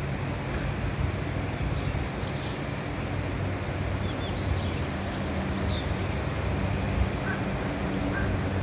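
Steady low hum and rumble of an E235-series electric train standing at a station platform, with a few short bird chirps in the middle.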